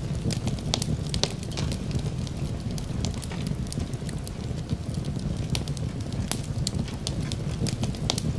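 Fireplace crackling, with frequent irregular sharp pops over a steady low rumble.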